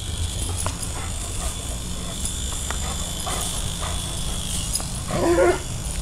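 Toy helicopter's small electric motor and rotor whining steadily, with scattered light clicks. A dog gives one short bark about five seconds in, the loudest sound.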